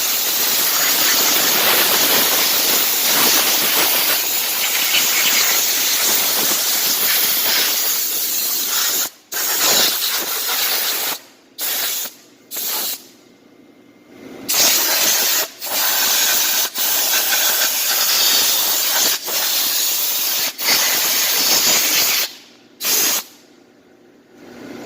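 Pressure washer spraying water, a steady loud hiss of the jet. After about nine seconds the spray stops and starts again several times in short bursts as the trigger is released and squeezed.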